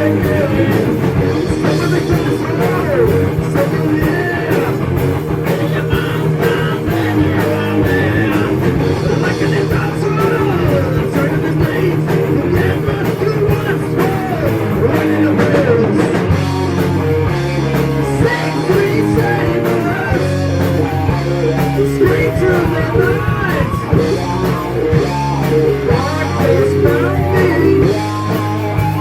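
Heavy metal band playing: distorted electric guitar, bass and drums, with singing or bending lead lines. About halfway through, the low part changes to a blockier riff.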